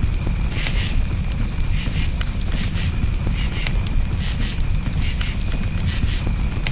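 Crickets chirping in short pulses about once a second over a campfire, with sharp crackles and a steady low rumble underneath.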